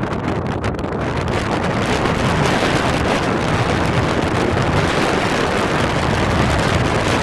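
Strong wind buffeting the microphone, a loud, steady rushing roar that strengthens slightly about two seconds in.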